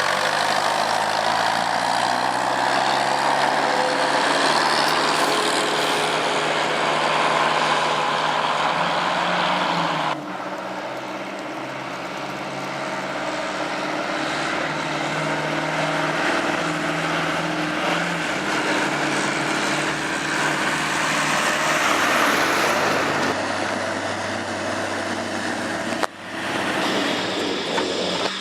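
Tractor engines running loudly, their pitch shifting as engine speed changes, across several clips with abrupt changes about ten seconds in and again near the end.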